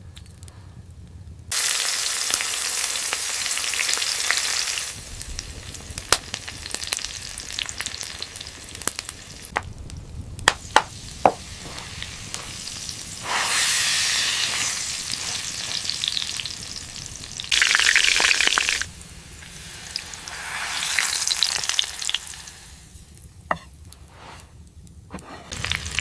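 Meat frying and sizzling over a fire, in several stretches a couple of seconds long that start and stop abruptly, with sharp pops and crackles between them.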